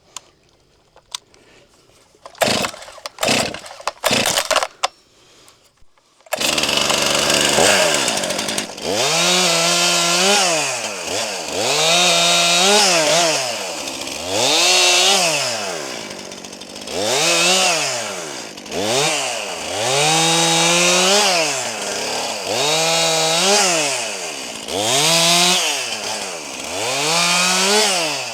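Brand-new Stihl MS261 C two-stroke chainsaw being started: a few short starting pulls, then the engine catches about six seconds in. It is then revved up and let back down over and over, about once every two seconds, on its first warm-up.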